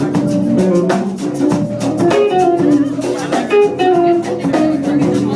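Live band music with a prominent guitar over a steady beat.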